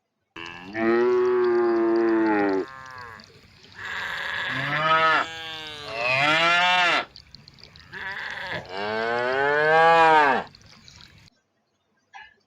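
A cow mooing: a series of long, drawn-out moos with short pauses between them.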